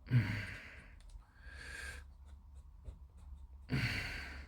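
A man breathing out heavily twice, once at the start and again near the end, with strain in the breath, with quieter breathing between.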